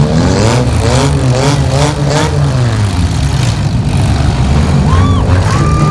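Demolition derby cars' engines running and revving up and down hard as they ram each other, with a few knocks of impacts. Near the end a steady high-pitched squeal sets in.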